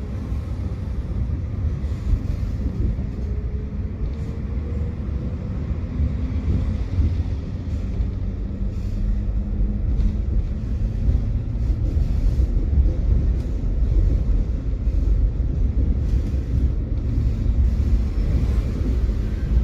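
Tram running along its rails with a steady low rumble. A faint whine rises slowly in pitch during the first few seconds as it picks up speed.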